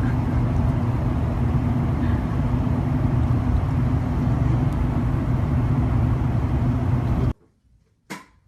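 Steady low rumble with a constant hum, cutting off abruptly about seven seconds in.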